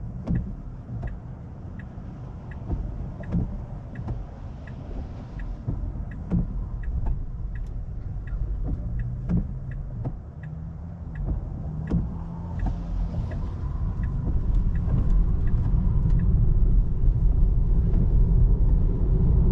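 Cabin noise of a Tesla Model 3 driving on a wet road: a steady low road and tyre rumble that grows louder over the last few seconds. A light ticking repeats about one and a half times a second until a little past halfway.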